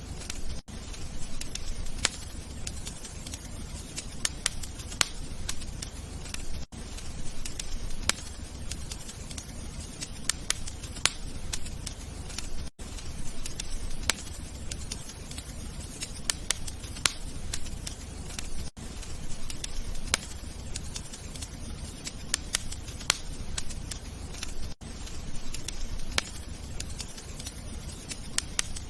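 Wood fire crackling in a fireplace: many sharp, irregular pops and snaps over a low steady rumble of the burning, with a brief dropout about every six seconds.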